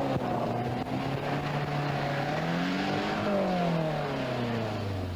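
Rally car engine running hard, its pitch climbing for about three seconds and then falling away.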